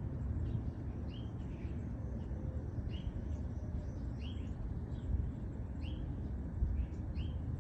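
Birds chirping, short repeated calls about once or twice a second, over a steady low outdoor rumble.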